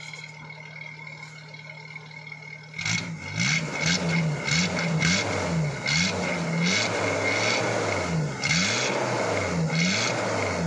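Maruti Gypsy's 1.3-litre four-cylinder petrol engine heard at the tailpipe, idling steadily. About three seconds in it is revved in a run of quick throttle blips, about eight, each rising and falling in pitch, at roughly one a second.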